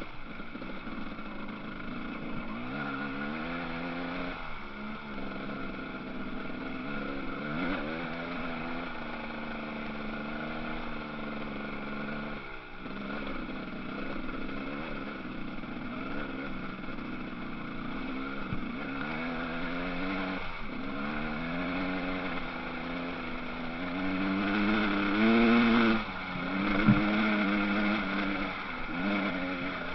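Motocross bike engines revving up and down over and over as the bikes race round the track. The engine sound grows loudest about 25 seconds in.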